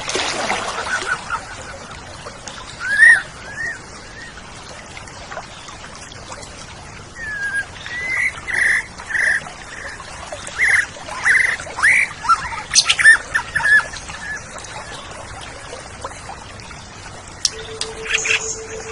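Oriental magpie-robin (kacer) singing: scattered whistled and chattering notes, with a quick run of short notes in the middle. A steady flat tone comes in near the end.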